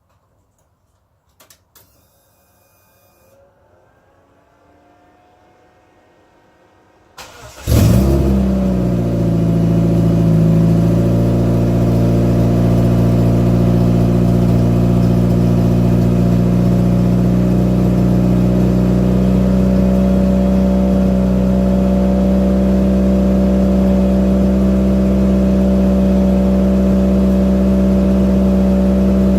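1998 Neon's four-cylinder engine cold-started: after a couple of faint clicks it cranks briefly about seven seconds in, catches with a short flare, and settles into a steady fast cold idle.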